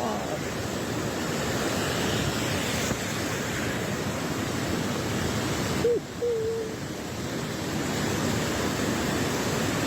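Steady rushing of floodwater, a dense, even roar of water mixed with wind noise on the microphone.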